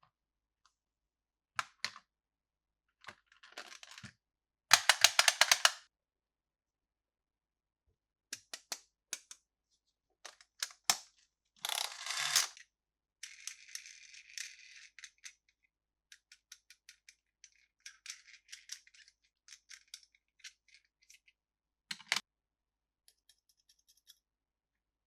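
Plastic toy parts and packaging being handled: scattered clicks and snaps, a loud second-long run of rapid clicking about five seconds in, another dense rattle near the middle, then a soft crinkling and a few sparse clicks.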